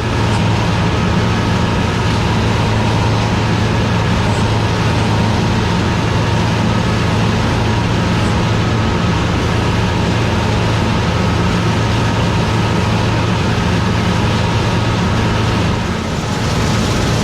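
Combine harvester running steadily while threshing soybeans, heard from inside the cab: a steady low engine hum with a faint high whine from the machinery. It dips briefly near the end.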